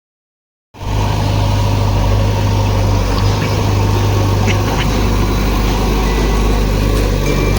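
Heavy-machinery diesel engine running steadily with a deep low hum, cutting in abruptly under a second in.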